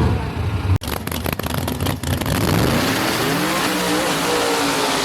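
Race car engine accelerating hard, its pitch climbing through the second half, after a brief sudden break about a second in.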